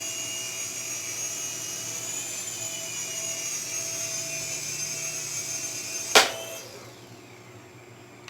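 Small electric motors of a Syma Speed S5 toy RC helicopter whining steadily. About six seconds in there is a sharp knock, and then the whine winds down.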